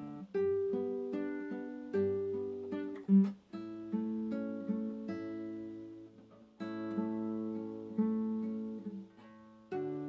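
Acoustic guitar playing slow, gentle fingerpicked notes and chords, each ringing out and fading before the next.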